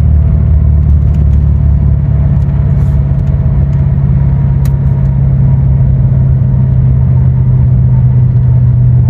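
1990 Corvette's L98 5.7-litre V8 running while driving: a loud, steady, deep engine and exhaust drone whose pitch rises a little about two to three seconds in, then holds.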